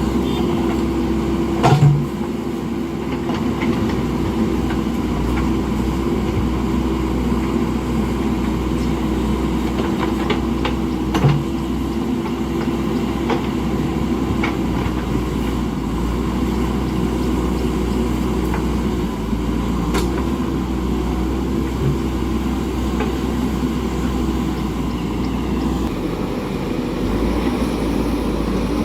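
JCB backhoe loader's diesel engine running steadily, with a few sharp knocks, the loudest about two seconds in and another near the middle.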